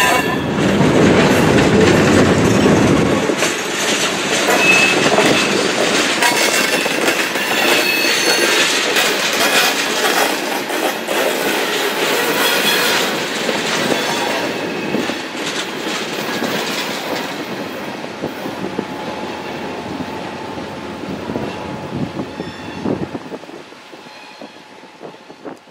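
Freight tank cars rolling slowly on steel wheels, with clacking over rail joints and short high-pitched wheel squeals. The sound fades steadily after the last car passes, ending in a few scattered clicks.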